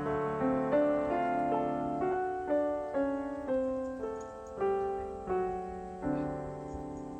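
Background piano music: a slow melody of single notes, each struck and left to fade, about one note every three-quarters of a second.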